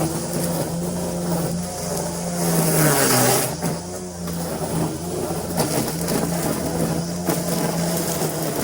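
Lawn mower running steadily while cutting grass. Its pitch sags briefly about three seconds in, with a burst of hiss, then recovers.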